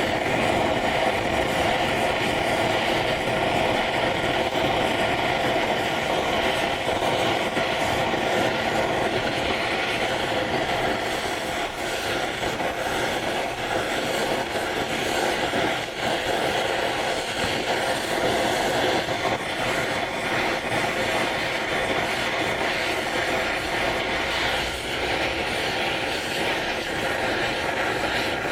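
Gas torch flame burning with a steady rushing noise, heating steel T-nuts for case hardening.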